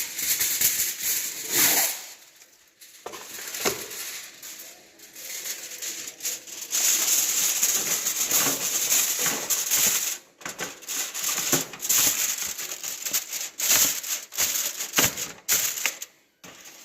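Aluminium foil crinkling and rustling as a sheet is handled and pressed into a thin baking tray, in irregular crackly bursts with a longer unbroken rustle in the middle.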